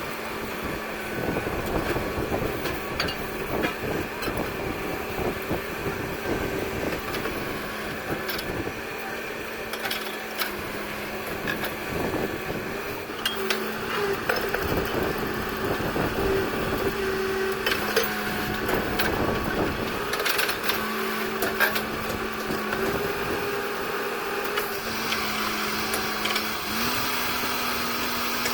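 Borewell drilling rig running: a steady engine drone with scattered sharp knocks. A high hiss joins in about 25 seconds in, and the drone's pitch steps up briefly near the end.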